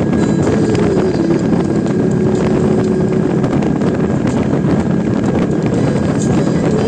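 Suzuki Intruder VL800's V-twin engine running at highway cruising speed, its note holding fairly steady, with wind rushing over the microphone.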